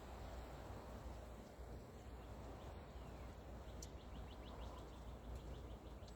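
Faint outdoor background noise with a low rumble, and about four seconds in a bird gives a fast trill of short repeated notes lasting about two seconds.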